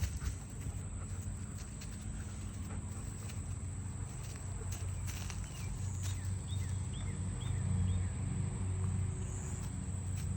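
Outdoor ambience with a steady low rumble and scattered light steps or rustling, likely a dog moving about on the ground. A small bird chirps four times, starting about six seconds in.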